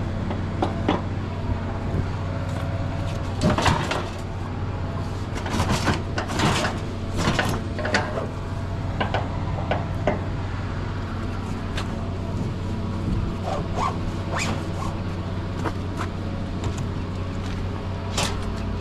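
A vehicle engine running steadily, with scattered knocks and clatter over it, several in quick succession a few seconds in and a few more near the end.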